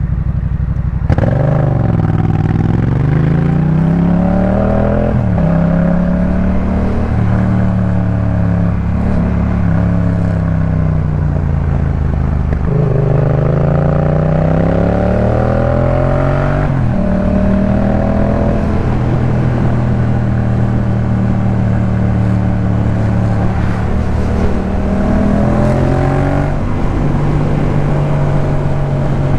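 2018 Yamaha MT-07's parallel-twin engine through a Jeskap K4 full exhaust, under way and pulling up through the revs. Its pitch rises and then drops sharply at gear changes about five seconds in, just past halfway and near the end. It holds fairly steady revs in between.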